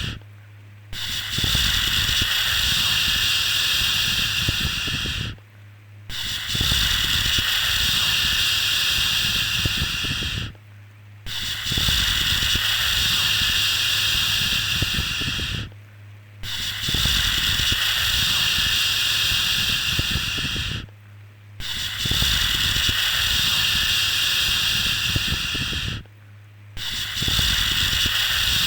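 A long 'shhh' shushing sound, bright and hissy, repeated over and over: each shush lasts about four and a half seconds, with a brief pause before the next one, about every five seconds.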